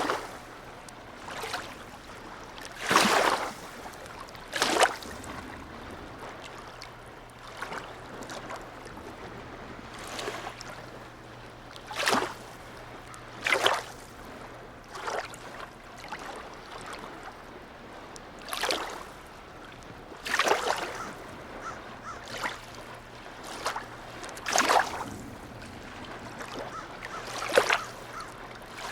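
Small waves lapping and slapping against the harbour edge, a dozen or so short splashes one every one to three seconds, over a faint steady low hum.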